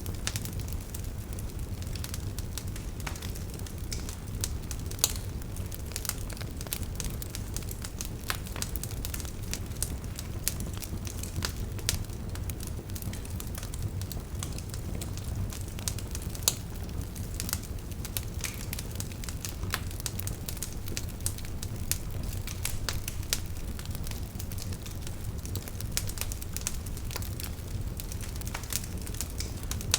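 Wood fire burning in a fireplace: irregular sharp crackles and pops over a steady low rumble, with a few louder pops standing out.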